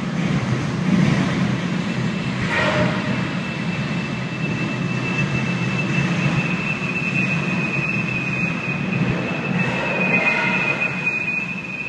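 Long empty freight train of open hopper cars rolling past with one car derailed, dragging its wheels through the ballast: a steady heavy rumble and grinding. A few seconds in, a high, steady metallic squeal starts and holds to the end.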